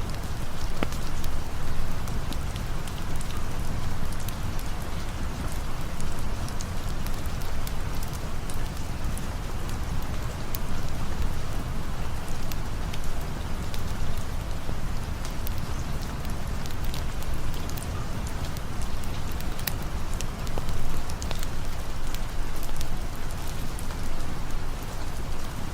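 Steady rain falling, with a low rumble beneath it and scattered sharp crackles from a campfire.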